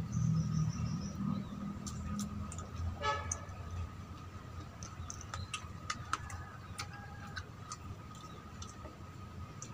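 Eating sounds: chewing and small mouth clicks of a man eating crispy fried chicken, over a steady low hum with a constant high tone. A short pitched sound comes about three seconds in.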